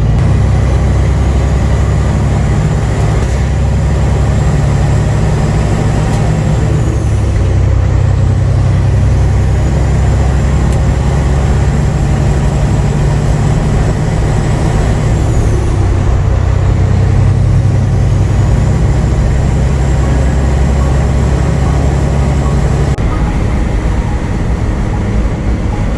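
Straight-piped Caterpillar C15 diesel in a loaded grain semi pulling hard and shifting up through the gears. The engine note steps down at each shift about every four to nine seconds, and a high turbo whistle climbs between shifts and falls away sharply at each one.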